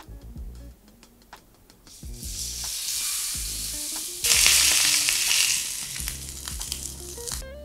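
Chicken thigh sizzling in oil in a frying pan, being pan-fried again after cooking to brown and crisp it. The sizzle starts about two seconds in, gets louder about halfway through and cuts off abruptly near the end.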